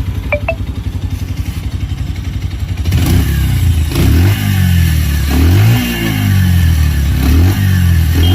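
Bajaj Pulsar 125's single-cylinder engine idling for about three seconds, then revved with repeated quick throttle blips, the exhaust note rising and falling about once a second.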